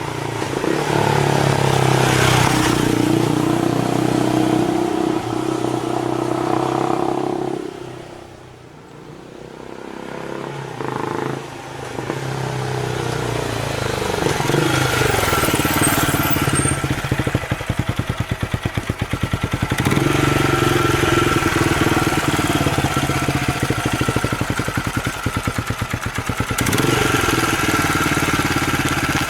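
Motorcycle engine running under way, its pitch rising and falling as it speeds up and eases off. It drops away to a lull about eight seconds in, then picks up again and runs fairly steadily.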